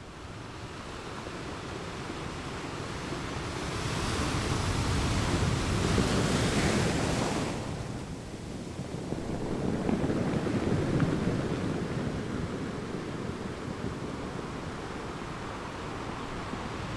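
Sea waves breaking on the shore: one wave builds to a crash and hiss about six seconds in and drops away suddenly, then a second wave swells and washes back a few seconds later.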